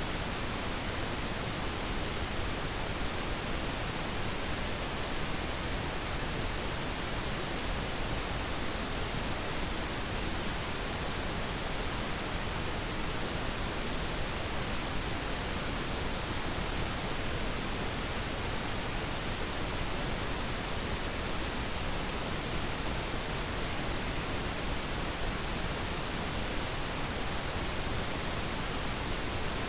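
Steady pink noise: an even, unchanging hiss spread across all pitches, with no other sounds.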